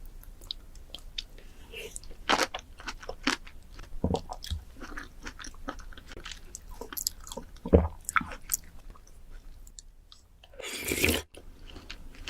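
Close-miked crunchy bites and chewing of fruit, many short sharp crunches one after another. A louder, longer crunch or slurp comes about ten and a half seconds in.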